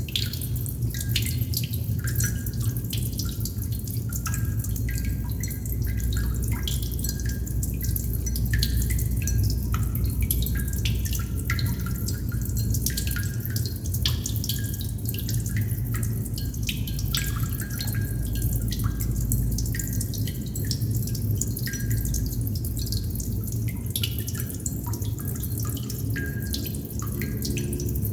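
Water droplets dripping irregularly, many small plinks and ticks, some with a short pitched ring, over a steady low rumble.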